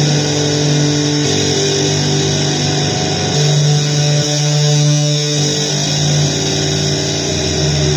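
Guitar music in a slow blues style: long held notes that change every second or so over a steady noisy wash.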